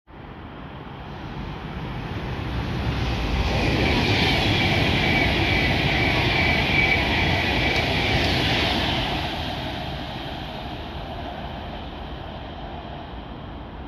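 Class 390 Pendolino electric train passing at speed. A rushing sound builds over the first few seconds and is loudest in the middle, with a steady high whine, then fades away as the train recedes.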